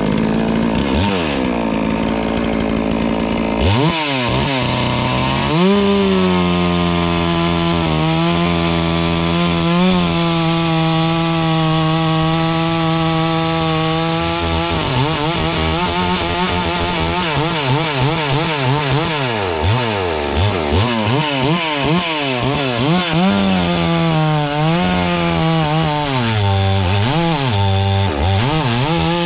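FarmMac F380W 72cc two-stroke chainsaw running at high revs while cutting wood. The engine pitch holds steady for a stretch, then repeatedly drops under load and picks back up.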